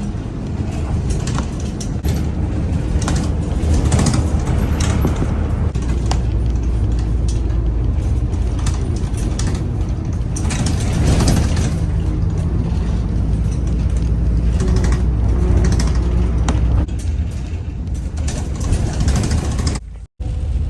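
A train passing close by: a steady low rumble with irregular clatter of wheels over the rails. The sound cuts out for a moment near the end.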